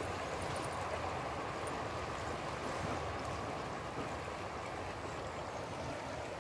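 A river swollen with rain, rushing steadily.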